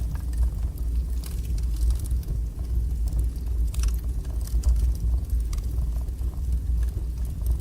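Wood fire burning in a fireplace: a steady low rumble of the flames with scattered crackles and small pops.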